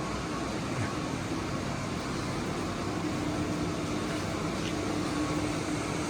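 Steady mechanical hum with a constant low drone and a faint higher tone, unchanging in level.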